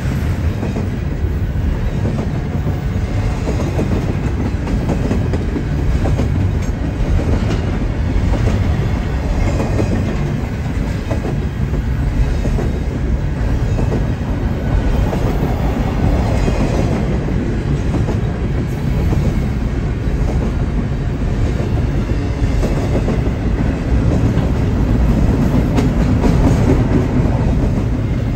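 BNSF double-stack intermodal container train passing at close range: a steady rumble of steel wheels on the rails, with clicking as the well cars roll by.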